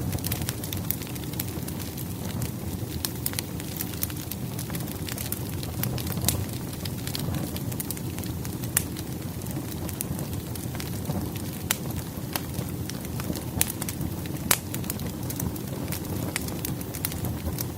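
Firewood burning in a fireplace: a steady low rush of flames with frequent sharp crackles and pops, a few of them louder, about 6, 9 and 14½ seconds in.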